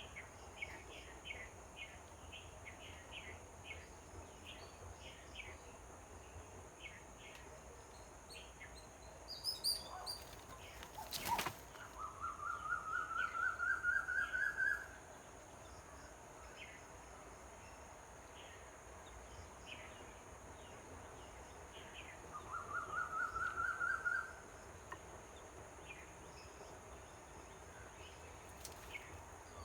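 A bird calls twice in a quick run of repeated notes that climb steadily in pitch, the first run about three seconds long and the second shorter. Under it is a steady high insect hum with scattered faint chirps, and a single sharp click about eleven seconds in.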